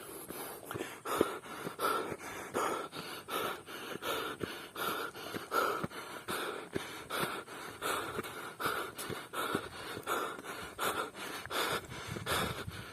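A person panting hard while running, a loud rhythmic breath about every 0.7 seconds, with quick sharp ticks between the breaths.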